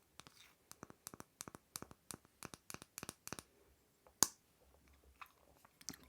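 Quick run of sharp clicks and taps on a small object, about four or five a second, with one much louder click about four seconds in.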